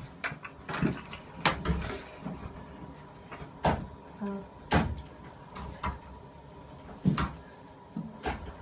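Scattered sharp knocks and clicks, about eight at irregular intervals, over soft rustling and shuffling as people move about and handle things in a small room.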